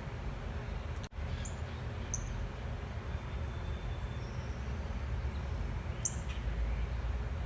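A few short, high bird chirps over a steady low rumble of background noise, which briefly drops out about a second in.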